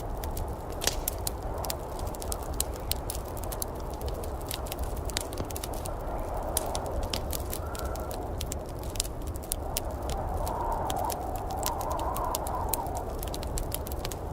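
Wood fire crackling, with frequent sharp, irregular pops and snaps over a steady rushing noise and a low rumble.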